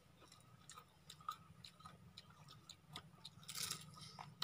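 Faint crunching and chewing of crispy fried swamp cabbage (kangkong) fritters: a scatter of short crisp crackles, densest a little past three and a half seconds in.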